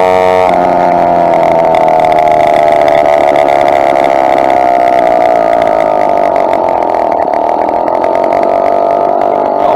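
Small two-stroke motorized bicycle engine running with a steady buzzing note. The note shifts about half a second in, then holds, a little quieter over the last few seconds.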